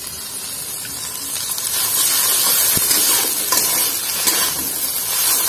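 Onion, garlic and tomato sizzling in hot oil in a metal kadai as cumin and ginger are added, the sizzle growing louder about two seconds in. A metal spatula stirs and knocks against the pan a few times.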